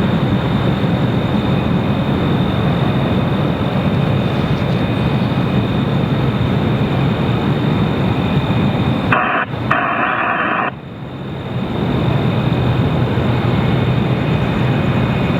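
Steady, loud roar of a jet airliner's engines. About nine seconds in it drops away for a moment while a short burst of radio static breaks in, then builds back up.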